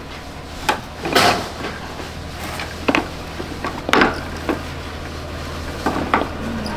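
Irregular knocks and clatter of hand tools and metal parts being handled during motorcycle repair work, about seven separate strikes over a steady low hum.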